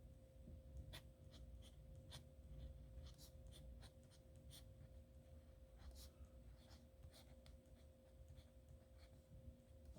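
Dip nib pen scratching on paper in short, irregular strokes, faint, over a steady low hum.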